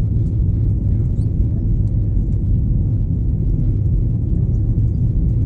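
Steady low rumble of an Airbus A321-211's cabin in flight: engine and airflow noise heard from a window seat near the rear.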